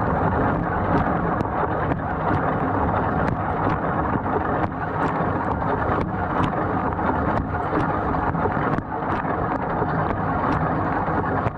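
GE GDT655SSJ0SS dishwasher running a wash cycle: the circulation pump runs steadily and water sprays and splashes inside the tub, with irregular light ticks about twice a second.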